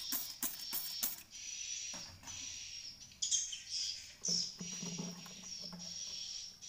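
Swiftlets chirping and twittering inside a swiftlet house, a high steady trill throughout, with a run of sharp clicks in the first second.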